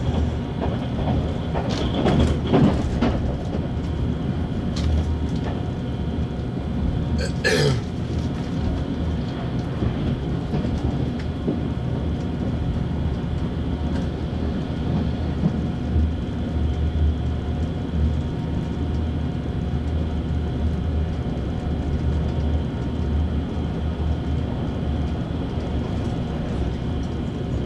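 JR Shikoku 8000 series electric train running, heard inside the passenger car: a steady rumble of wheels on rail and traction motors. There are a few short knocks in the first three seconds and one brief sharp sound about seven seconds in.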